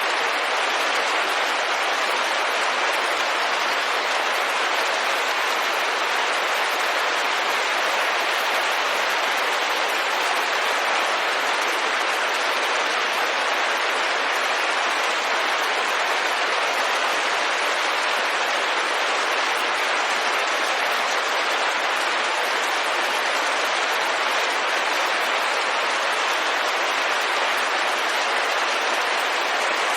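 Steady rain pattering on a window pane, an even hiss with no single drops or gusts standing out.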